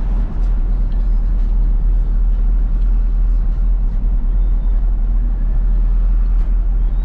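Isuzu FRR90 truck's diesel engine and road noise while driving: a steady low rumble.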